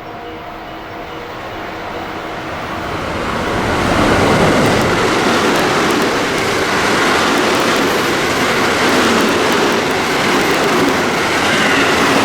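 A JR West train passing through a station without stopping. The noise builds over about four seconds as it approaches, then holds steady and loud as the cars run past on the rails.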